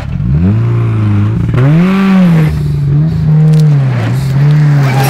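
Subaru Impreza WRX STI's turbocharged flat-four engine revving up and falling back about five times in a row, as the car is driven to get it out of the ditch while people push.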